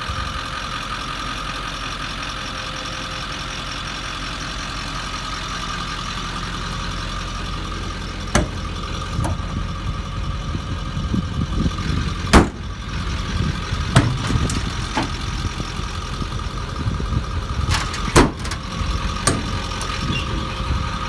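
Ford 7.3 L Powerstroke turbo diesel idling steadily, with a steady high whine over the engine note. From about eight seconds in come a series of sharp clicks and knocks, the loudest about halfway through.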